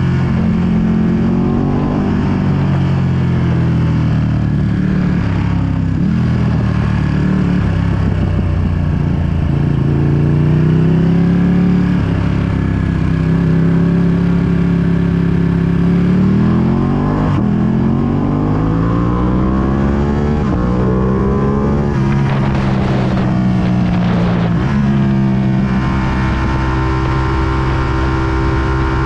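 2020 Ducati Panigale V2's 955 cc twin-cylinder engine running through a full Akrapovic exhaust while riding. The engine pitch climbs several times as it accelerates, drops sharply about two-thirds of the way through, then holds a steady note near the end. Wind noise on the microphone runs under it.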